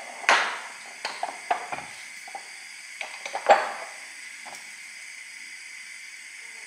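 A spoon clinking and scraping against a cooking pot as tomato paste is stirred into a tomato and olive oil sauce, over a steady sizzling hiss from the pot. The clinks come in an irregular run, the loudest shortly after the start and about three and a half seconds in, and stop a little after four seconds in, leaving only the hiss.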